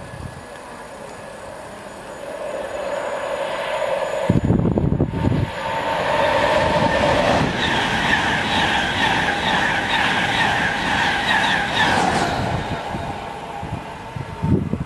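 InterCity 225 electric express passing through the station at speed. It grows louder from about two seconds in and jumps as the leading end passes about four seconds in. The coaches' wheels then beat past in quick, even succession with a steady whine over them, easing off near the end.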